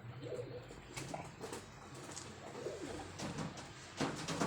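Feral pigeons cooing: several low, rolling coos, with a few sharp taps near the end.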